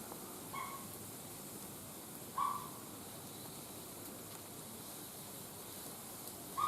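Two short bird calls about two seconds apart, over a steady hiss.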